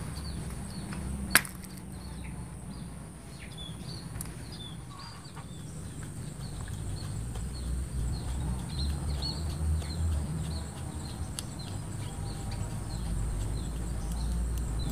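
Outdoor background of many short, high bird chirps over a steady high insect drone and a low rumble, with one sharp click about a second and a half in as small metal carburettor parts are handled with hand tools.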